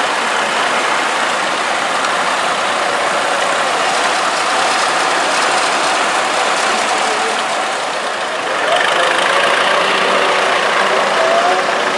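Vintage tractor engines running as the tractors pass, growing a little louder about two-thirds of the way through.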